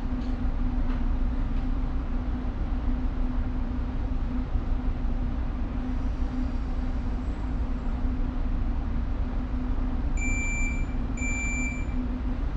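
Steady low rumble and hum of a tanker's engine and machinery during berthing. Two short high beeps about a second apart near the end.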